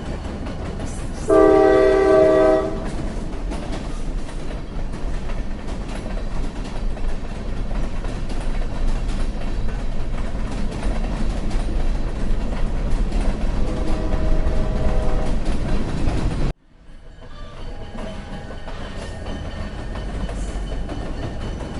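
A train running with a steady low rumble. Its horn sounds loudly for over a second, about a second in, and again more faintly about two-thirds of the way through. The sound cuts out abruptly for a moment near the end, then the rumble resumes.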